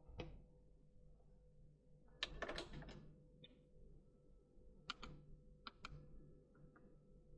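A few faint clicks and knocks, with a short cluster of clattering clicks about two seconds in.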